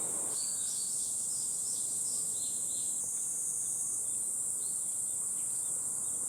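Steady high-pitched insect drone, with faint short chirps scattered through it.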